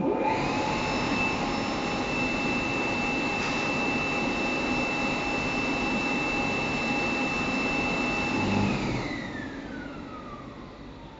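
Electric blower motor of a DPF cleaning machine switching on and running at a steady high whine over a rush of air. About 8.5 seconds in it is switched off and winds down, the whine falling in pitch.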